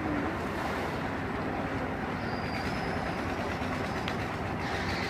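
Heavy diesel engine of a concrete truck running steadily at a construction site, a continuous low rumble with a faint high whine through the middle.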